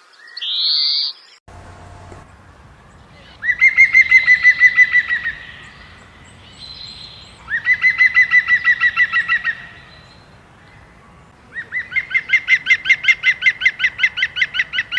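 A songbird singing: a short rising whistle in the first second, then three loud trilled phrases of rapidly repeated notes, about six to seven a second, each lasting two to three seconds, with pauses between them.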